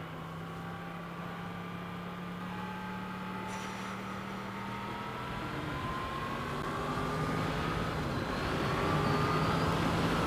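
Yamaha MT-10 (FZ-10) 998 cc crossplane inline-four heard from the rider's seat, pulling steadily in a high gear so its pitch rises slowly and it grows louder.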